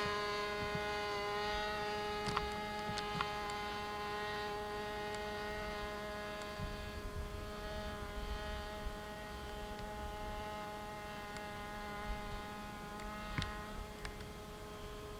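A model airplane's small glow-fuel engine running at a steady, high buzzing pitch, slowly growing fainter, with a few light clicks.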